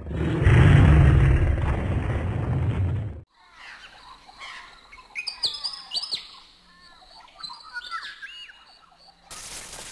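A loud rumbling noise that cuts off abruptly about three seconds in, then birds chirping and tweeting in short rising and falling calls. Near the end a steady hiss comes in.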